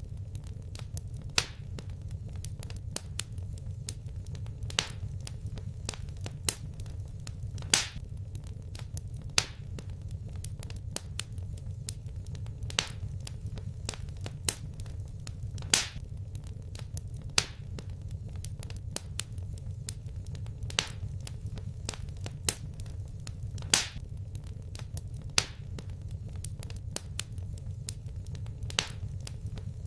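Wood fire crackling in a fireplace: a steady low rumble of burning with sharp pops every second or two, a few of them louder than the rest.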